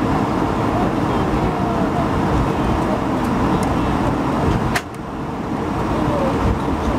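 Cabin noise inside an Airbus A220-100 (Bombardier CS100) on its departure: the Pratt & Whitney PW1500G geared turbofan engines running, a steady dense rumble with faint whining tones shifting in pitch. A sharp click about five seconds in, with a brief dip in the noise.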